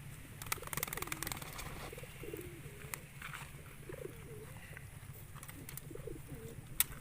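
Pigeons cooing, a run of low, rolling coos one after another. A flurry of sharp clicks comes from about half a second to two seconds in, and one louder click comes near the end.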